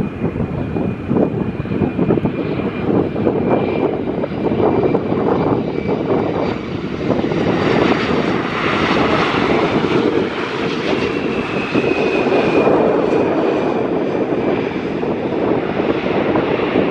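An airliner's engines running loud at close range: a heavy rushing noise with a thin high whine over it, loudest around the middle.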